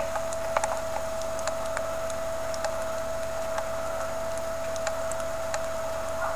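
A large flock of small birds in the trees giving sparse, irregular clicks and short chirps, over a steady electrical hum.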